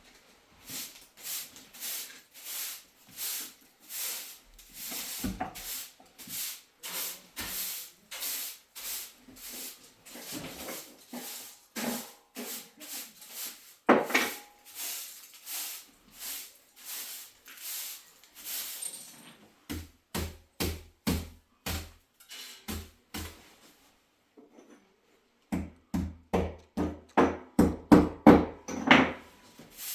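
Steady run of crunching strokes, about two a second, breaking off briefly about 24 seconds in and loudest near the end: footsteps in snow.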